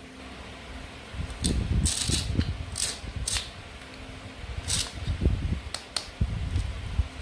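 Toy play food being handled and cut with a toy knife: dull knocks of handling against a surface, with several short, sharp plastic crackles and clicks.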